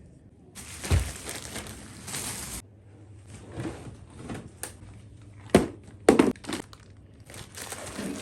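A crunching, rustling handling noise for about two seconds, starting with a thump, then a few sharp knocks a few seconds later.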